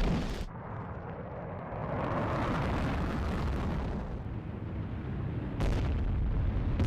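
Rocket engines firing at launch: a continuous deep rumbling noise that steps up suddenly in loudness about five and a half seconds in.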